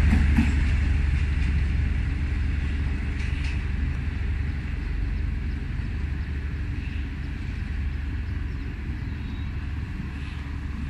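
Passenger train pulling out: a low rumble of the coaches on the rails, fading slowly as the train moves away.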